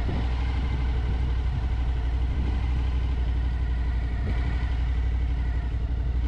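Motorcycle engine running steadily at cruising speed, a constant low drone, with wind and road noise over it.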